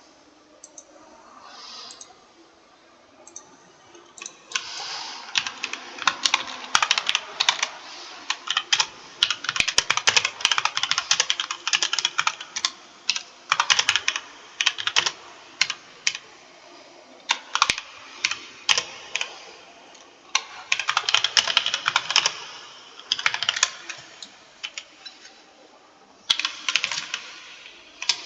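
Typing on a computer keyboard: rapid runs of key clicks in bursts with short pauses between them, starting about four seconds in after a quieter stretch.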